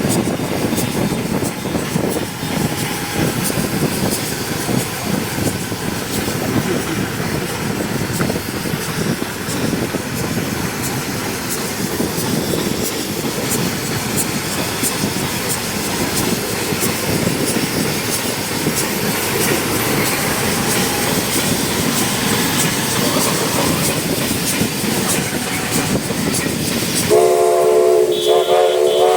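Steam train rolling past with a steady rumble of wheels on the rails. Near the end its whistle sounds two blasts, several pitches at once.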